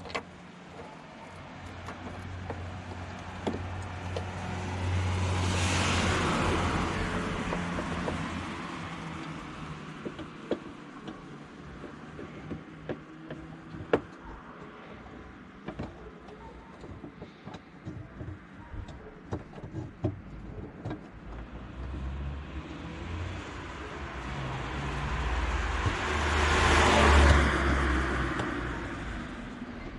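Two cars passing by, each rising and fading away, the first about six seconds in and the second, louder one near the end. Scattered light clicks in between.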